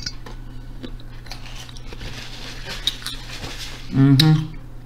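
Close-miked chewing: soft wet mouth clicks and smacks of someone eating, with a short hummed vocal sound about four seconds in.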